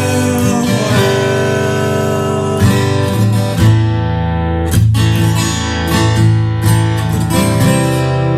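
Instrumental passage of a song: acoustic guitar strumming chords over sustained low bass notes, with no singing.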